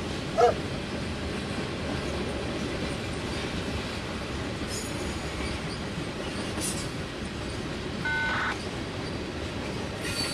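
Freight train cars rolling steadily past: a continuous rumble and clatter of wheels on rail. A short loud sound about half a second in, and a brief wheel squeal around eight seconds in.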